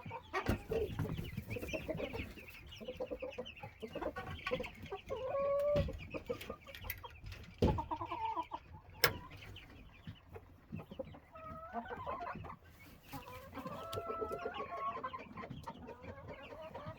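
Chickens clucking and calling on and off, in short pitched calls, some sliding up or down. A few sharp knocks stand out, the loudest about nine seconds in.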